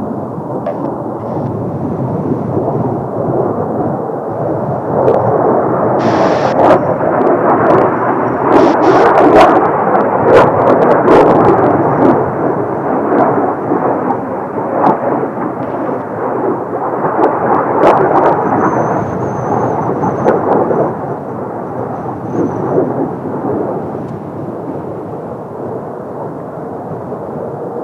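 Kawasaki T-4 jet trainers' engines passing, a deep rumble that swells to its loudest around the middle and then fades, with gusts of strong wind popping on the microphone.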